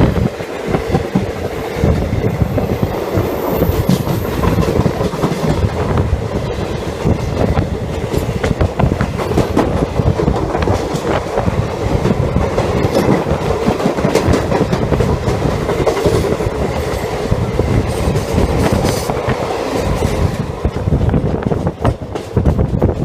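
Indian Railways express passenger train running at speed, heard from on board: a steady rumble of the coach, with the wheels clattering over rail joints.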